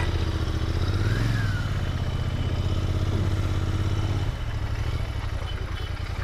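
Royal Enfield GT650 parallel-twin engine running at low revs, a deep steady rumble that grows louder and then drops back about four seconds in.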